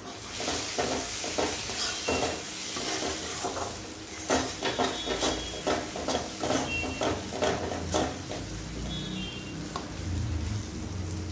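Onion-tomato masala sizzling in hot oil in a metal kadhai, with a spatula scraping and stirring it in repeated strokes that stop about eight seconds in, leaving only the sizzle. The oil has separated from the masala, the sign that the spices are fried through.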